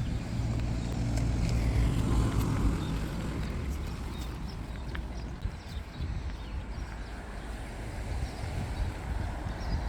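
A car driving past, loudest about two seconds in and then fading, over a steady low rumble.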